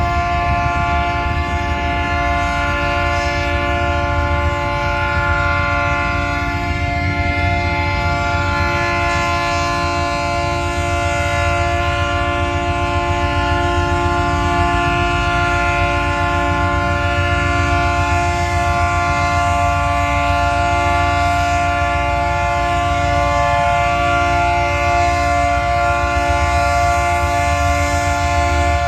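Diesel freight locomotives running as the train departs: a steady deep rumble under a chord of steady tones, unbroken throughout.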